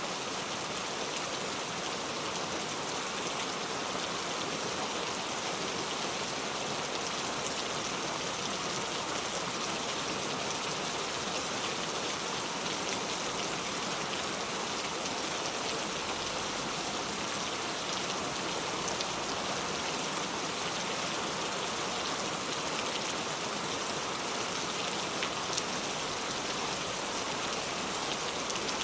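Steady rain falling, an even hiss with the fine patter of drops.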